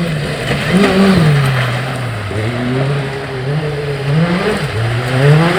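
Proton Iriz R5 rally car's turbocharged four-cylinder engine under hard driving, heard from inside the cabin. The engine note rises and falls repeatedly as the car is driven through the gears, with sharp dips about two and four and a half seconds in.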